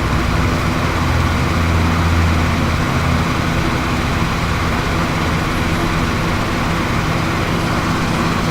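Lawnmower engine running steadily, heard through an open window, with a low hum that swells a little a second or two in.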